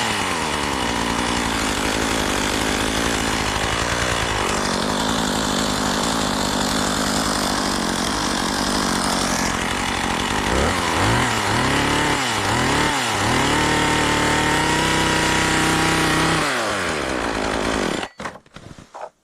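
Two-stroke chainsaw running steadily, revved up and down several times in the middle, then shut off abruptly near the end.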